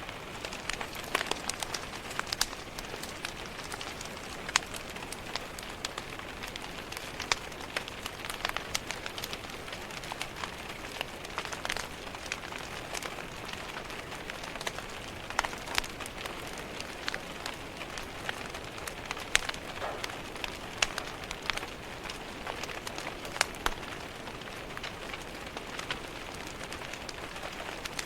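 Rain tapping against a window pane mixed with a crackling wood fire: a steady hiss with frequent, irregular sharp pops and ticks.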